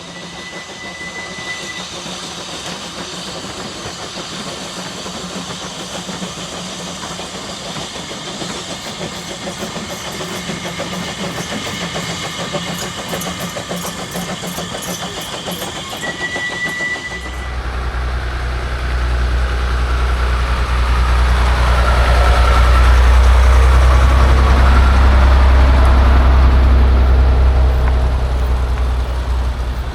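An engine running with a fast, even ticking; about halfway through it gives way to a loud, deep rumble that builds and then dies down over roughly ten seconds.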